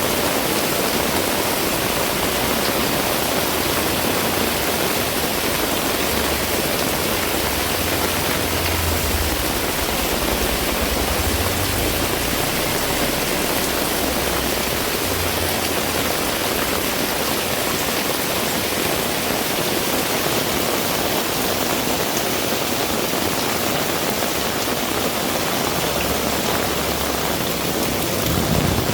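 Heavy rain pouring steadily, with low gusts of wind rumbling on the microphone. Near the end a low rumble swells, typical of a vehicle approaching on the wet road.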